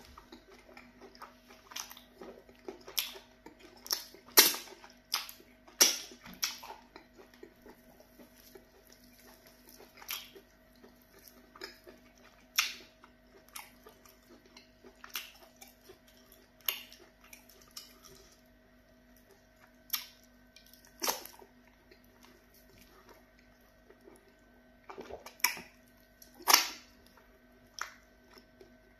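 Close-up eating sounds: wet mouth smacks and clicks while chewing pounded yam fufu with okra soup, eaten by hand. The sharp smacks come irregularly, thickest in the first several seconds and again near the end, with quieter chewing between.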